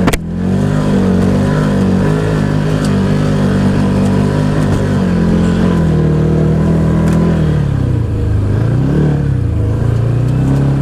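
Can-Am Maverick XMR 1000 side-by-side's engine pulling under load on a steep hill climb. The engine note holds steady, then falls and rises twice in the last few seconds as the throttle is eased and reapplied. A sharp click comes at the very start.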